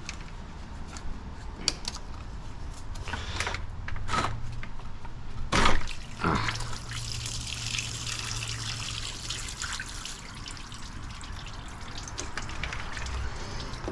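Fluid spilling and trickling out of a disconnected hose or line in a car's engine bay, with tool knocks and a loud clunk about halfway through just before the trickle.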